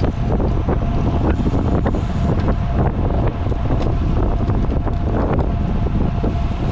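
Wind buffeting the microphone of a camera riding on a moving road bicycle: a loud, steady low rumble.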